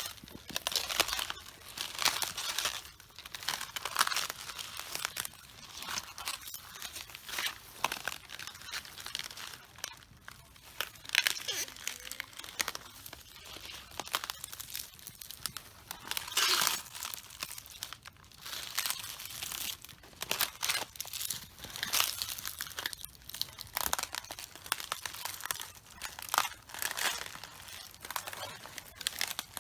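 Cabbage leaves and heads crunching, cracking and crinkling under footsteps, in an uneven run of sharp crunches several times a second.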